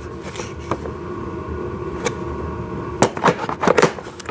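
Hard plastic toy parts being handled and set down: a few light clicks, then a quick cluster of clicks and knocks about three seconds in, over a steady background hum.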